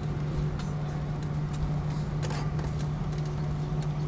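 Airliner cabin noise: a steady low hum from the engines and air systems over a low rumble, with a few light rattles about two seconds in.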